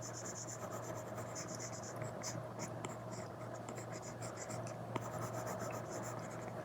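Apple Pencil tip drawing on an iPad screen covered with a paper-like matte film: quick runs of scratchy strokes with small taps between them, over a faint steady hum.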